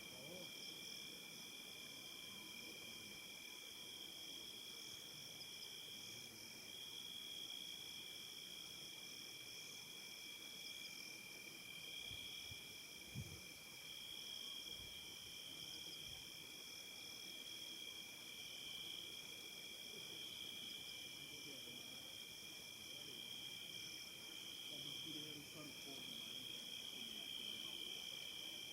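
Faint, steady chorus of insects at dusk, a continuous high-pitched trill in several layers, with one soft thump about 13 seconds in.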